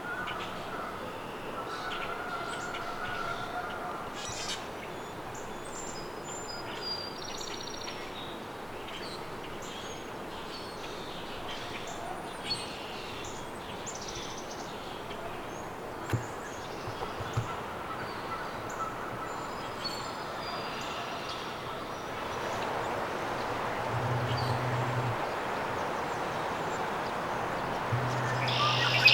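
Outdoor ambience of many small birds chirping and calling over a steady background hiss, with a couple of low calls near the end.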